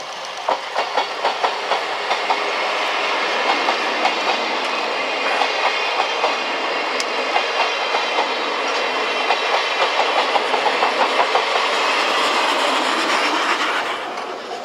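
A passing train, an EF65 electric locomotive hauling old passenger coaches with a C61 steam locomotive at the rear. Its wheels click over the rail joints in a rapid, steady clickety-clack over a rolling rumble, which fades away near the end as the tail of the train goes by.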